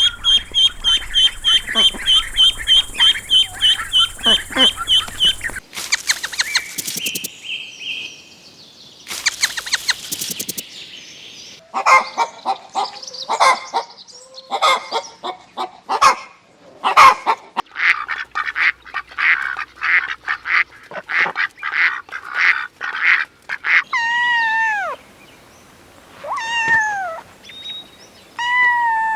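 A run of separate bird calls, most likely ducks and geese. It opens with about five seconds of a rapid, high, repeated call. Then comes a long stretch of quick harsh calls, and several calls falling in pitch near the end.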